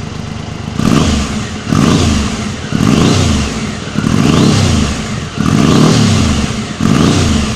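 1996 Triumph Trophy motorcycle engine, fitted with an aftermarket exhaust on test, idling and then blipped five times in quick succession. Each rev rises and falls back toward idle.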